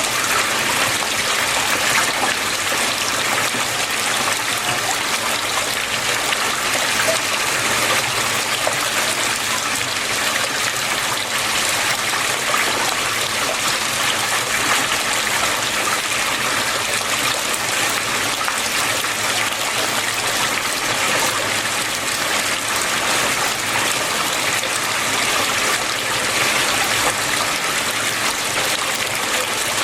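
Flowing water running steadily, a continuous even trickling and splashing.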